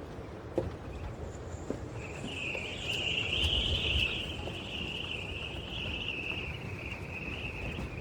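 An insect's high buzzing trill that starts about two seconds in and keeps going, over a low background rumble.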